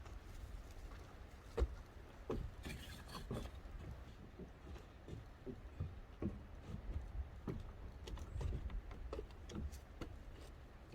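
Scattered light knocks and clicks, about a dozen at uneven intervals, over a steady low rumble.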